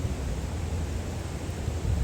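Wind buffeting the microphone: a steady low rumble with small surges, over a faint hiss.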